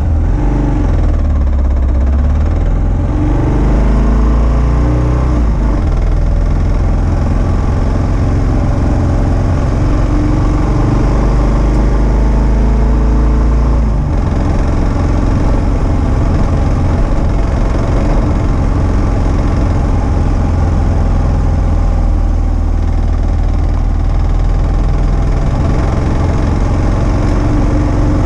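Kawasaki KLR650's single-cylinder engine running under way on a gravel road. Its pitch rises and falls a few times in the first seconds and changes again about halfway through, as the throttle and gears change.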